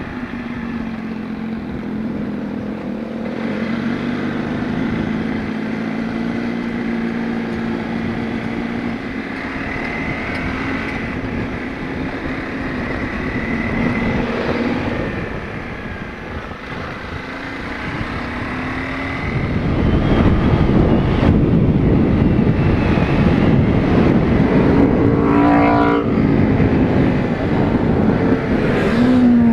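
Motorcycle engine running while riding, its pitch rising and falling with the throttle. A loud rushing wind noise on the camera microphone joins in about two-thirds of the way through.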